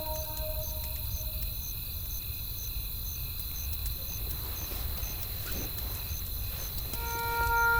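Night-time ambience of a crackling campfire and a chirping insect: a steady low rumble with faint scattered crackles, and a short high chirp repeating about twice a second over a faint steady high tone. Soft music notes fade out early on, and new ones come in near the end.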